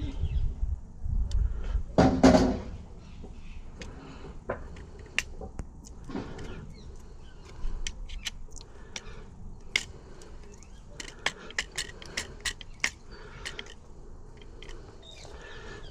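Small metal parts of a UPVC door lock gearbox being handled and worked, with a series of sharp clicks and light rattles. The clicks come thickest in the middle of the stretch.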